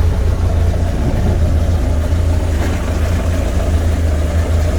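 1926 fuel truck's engine running steadily at low speed, a low even hum.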